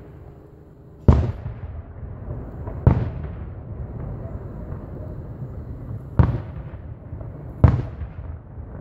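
Aerial firework shells bursting: four sharp booms, about a second in, near three seconds, a little after six seconds and near eight, each trailing off in a fading echo.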